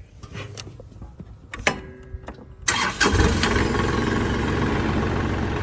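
Kubota L3301 tractor's three-cylinder diesel engine starting: faint clicks and a short steady tone, then the engine fires about three seconds in and runs steadily at idle.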